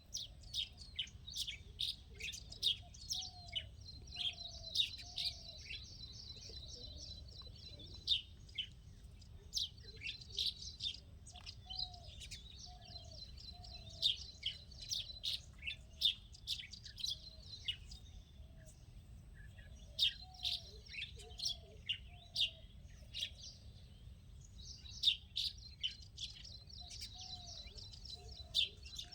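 Small birds chirping and twittering continuously in many quick, high notes. A lower call of about three short, falling notes breaks in roughly every eight seconds.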